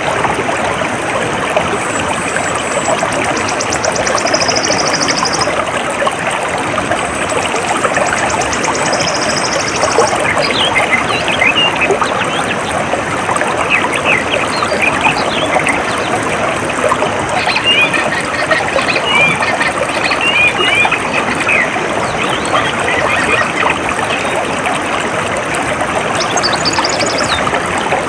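Steady trickling of flowing water. A few high, rapid trills come and go over it, and a spell of short bird chirps runs through the middle.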